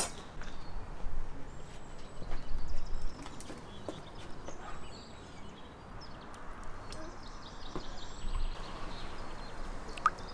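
Outdoor background with faint bird chirps and a low rumble. A few light taps and clicks come as a basting brush stirs sauce in a small glass bowl.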